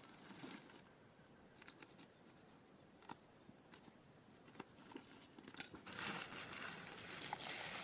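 Faint scattered clicks and rustling over a steady high insect trill. About six seconds in, a louder, even hiss of running water starts.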